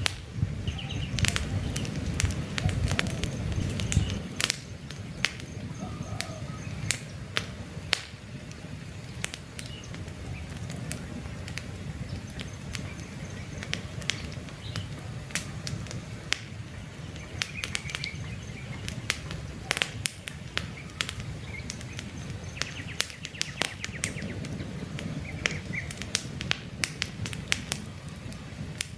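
Wood campfire crackling with frequent sharp pops over a low rumble of burning, the rumble heavier in the first four seconds. Birds chirp briefly now and then in the background.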